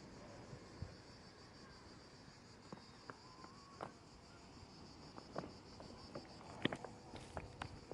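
Insects chirring faintly in a steady, high, even buzz, with scattered light clicks and knocks through it.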